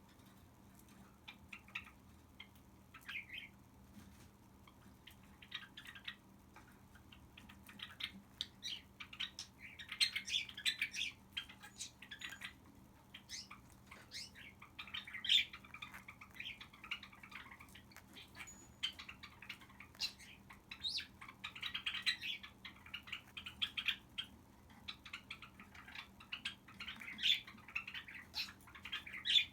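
Cockatiel chirping and chattering softly in short calls, sparse at first and coming more often after several seconds.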